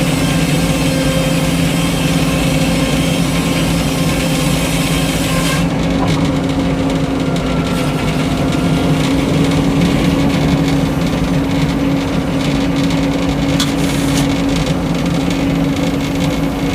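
Frick circular sawmill running steadily with its engine droning. The blade's high sawing hiss through the pine cuts off sharply about six seconds in as the cut ends, leaving the engine and free-spinning blade running.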